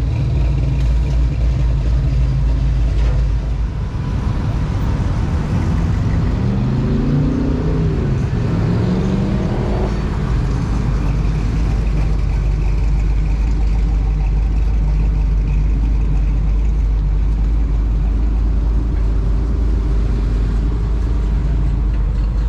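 Car engine running with a steady low hum; about six seconds in, an engine's pitch climbs and then falls back over a few seconds.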